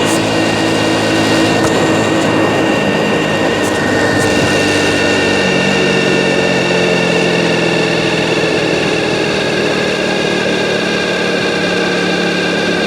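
Hero motorcycle engine running steadily on the move, its pitch shifting once about five seconds in.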